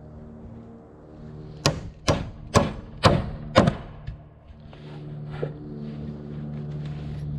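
Five sharp hammer blows about half a second apart, over the steady hum of an engine running.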